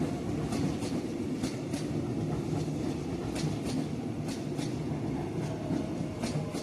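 Electric commuter train rolling past: a steady rumble with paired clicks as its wheels cross rail joints every second or two.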